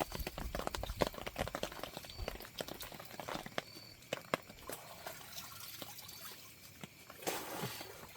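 Heavy rain: many irregular drops tapping close to the microphone over a steady wash of rainfall, with water dripping. A brief louder rush of noise comes about seven seconds in.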